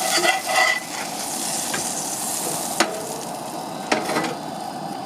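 Salmon fillet sizzling skin-side down in a very hot cast iron pan, a steady frying hiss. A few sharp clicks of a utensil against the pan come in the first second and again about three and four seconds in.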